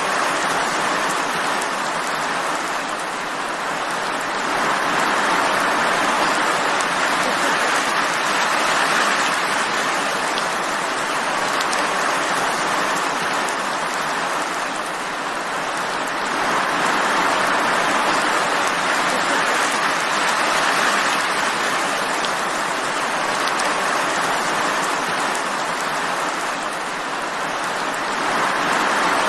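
Steady rain falling, an even hiss that swells and eases slowly every several seconds.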